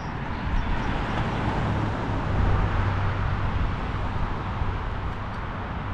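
Road traffic noise: a steady rumble of passing cars, with one vehicle growing louder in the middle before fading a little.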